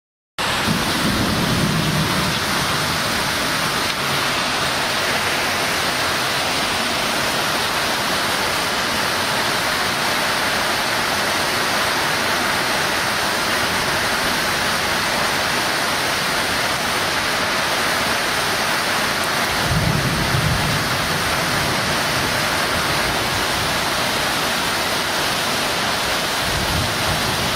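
Heavy rain pouring down in a steady, dense hiss. A low rumble swells up briefly about a second in and again about two-thirds of the way through.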